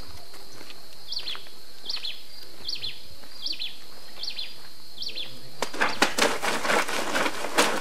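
A bird gives a short chirp six times, about every three-quarters of a second, over a steady high insect buzz. Then clothes are scrubbed and splashed by hand at a concrete wash basin, a louder run of wet slaps and splashes.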